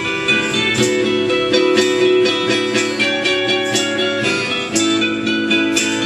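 Live rock band playing an instrumental passage, led by guitar with sustained notes over a steady drum beat.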